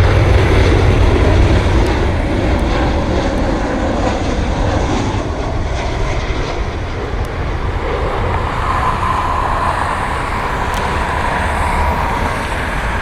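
Jet airliner's engines running as it passes close by, loudest at first and slowly easing off, with a thin steady whine in the second half.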